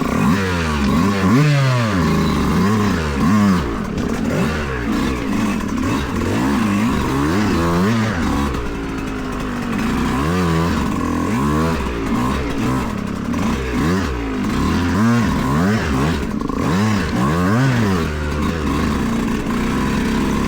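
Yamaha YZ125X two-stroke dirt bike engine being ridden, revving up and dropping back again and again as the throttle is worked, its pitch rising and falling about once a second.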